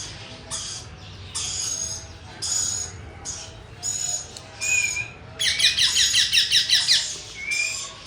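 A parrot calling: a string of short, harsh high calls, then near the middle a fast chattering trill of about six notes a second lasting around a second and a half.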